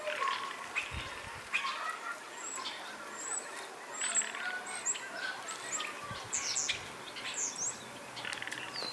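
Birds chirping outdoors: a run of short, high chirps and quick up-and-down sweeps, with fainter lower calls under them.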